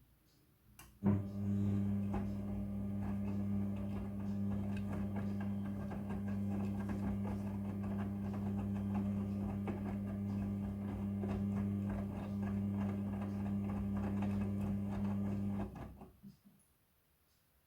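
Midea front-loading washing machine's drum motor turning the drum in a wash rotation: a steady hum with small knocks through it, starting about a second in and stopping about a second and a half before the end.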